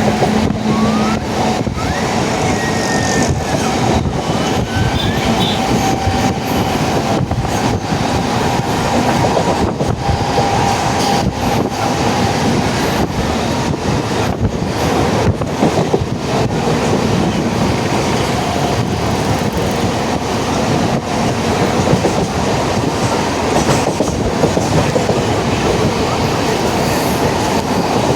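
Mumbai suburban local train running at speed, heard from inside the carriage: a loud, steady rumble and rattle of wheels on track, with a faint wheel squeal partway through.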